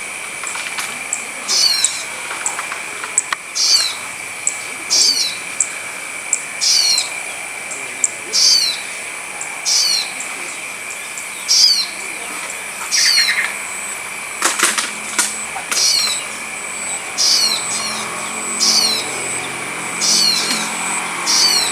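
A bird's short, falling call repeated about every one and a half seconds over a steady high-pitched drone, as a lure call for bird trapping. A quick cluster of clicks comes about two-thirds of the way through.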